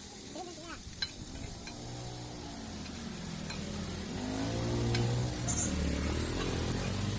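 Fish frying in oil on a flat tawa griddle, a steady sizzle. A vehicle engine hums underneath, growing louder toward the middle, and there is a single sharp click about a second in.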